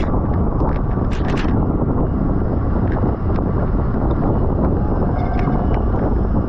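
Heavy wind buffeting a bike-mounted camera's microphone at racing speed, a dense rushing roar. A few short sharp clicks and ticks cut through it, a cluster of them about a second in.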